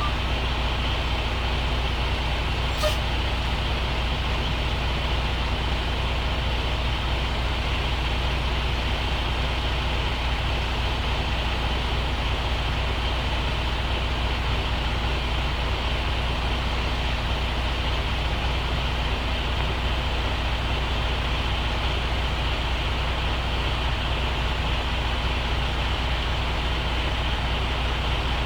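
A truck's diesel engine running steadily at an even pitch and level, with a single brief click about three seconds in.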